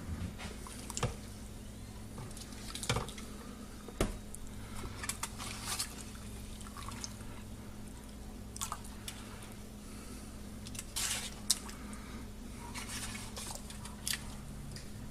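Irregular small clinks, drips and brief splashy crackles of water in a glass bowl, over a steady low hum.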